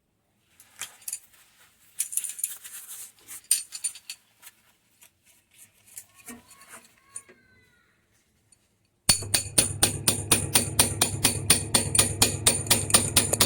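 Washing machine with scattered metallic clicks and rattles of parts being handled. From about nine seconds in, a steady hum with a fast rhythmic rattle of about four to five strikes a second, typical of a direct-drive washer that only makes noise when its coupler is worn.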